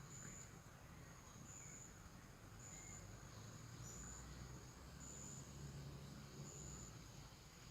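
Faint forest ambience: an insect repeats a short, high-pitched, even-toned buzz about once a second. A few soft, brief bird chirps and a low background rumble lie under it.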